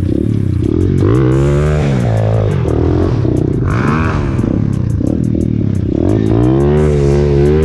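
Pit bike's small single-cylinder engine running under load while riding, revving up and dropping back several times as the throttle is opened and closed.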